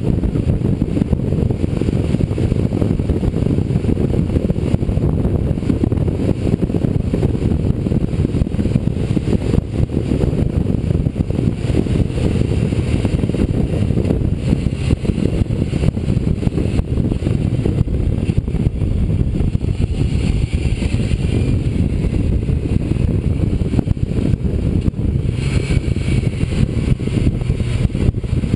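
Motorcycle at road speed: a steady, deep rumble of engine and wind. A brighter hiss joins in near the end.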